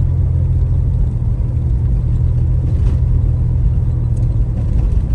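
Steady low rumble of a car on the move, with faint ticks over it.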